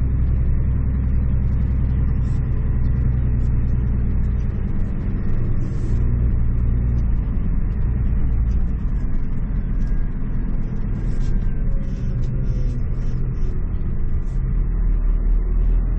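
Scania truck's diesel engine heard from inside the cab, a low steady drone that dips and swells a few times as the engine speed changes, with faint clicks and rattles over it.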